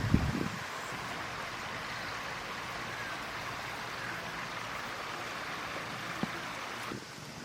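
Steady rushing noise of water, like rain or a stream, with a short low thump right at the start.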